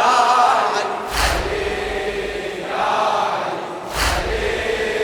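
A crowd of mourners chanting a latmiya refrain in unison, with two massed chest-beating strikes about three seconds apart.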